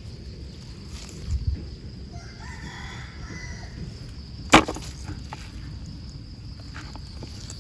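A rooster crowing once, faintly, for about a second. A sharp knock about a second after the crow is the loudest sound, over a steady low rumble.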